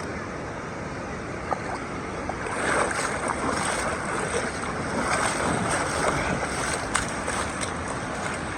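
Shallow ocean surf washing around, swelling about two and a half seconds in, with fine crackles of foam and water.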